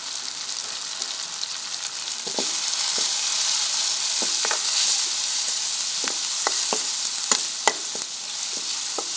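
Onions, tomatoes and spices sizzling in hot oil in a karahi as the masala is fried. From about two seconds in, a metal ladle stirs the mix, clinking and scraping against the pan in a string of sharp clicks while the sizzle grows louder.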